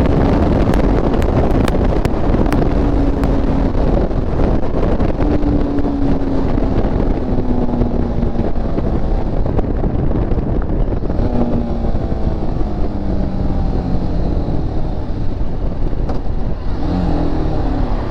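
Motorcycle engine braking while being downshifted with no brakes applied: the engine note falls as the bike slows, jumps up with each downshift, about three times, then falls again, under heavy wind rush.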